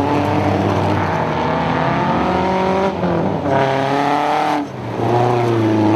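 Peugeot 206 GTI 2.0 race car's four-cylinder engine running hard on high revs. The engine note drops out briefly twice, at about three seconds and again near five seconds, then picks up again.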